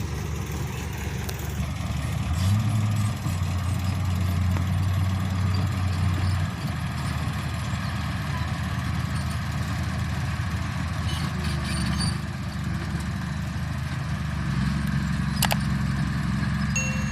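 Heavy equipment engines running with a steady low rumble. The engine note steps up and holds for several seconds, twice, as if the machines are put under load.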